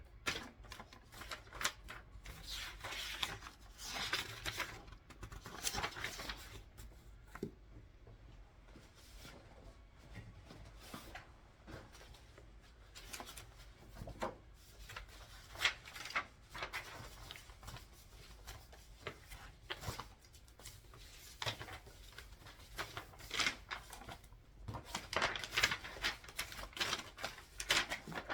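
Sheets of paper being handled and sorted, rustling in stretches, with many scattered sharp clicks and taps.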